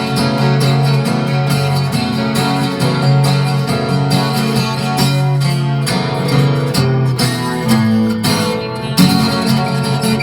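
Acoustic guitar strumming chords: the instrumental close of a folk song after the last sung line.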